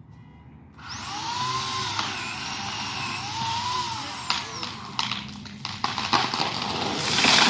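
Chainsaw cutting into an aspen trunk: it comes in about a second in and its engine pitch rises and falls twice as it is revved through the cut. It is followed by a run of sharp cracks and a loud rush of noise near the end.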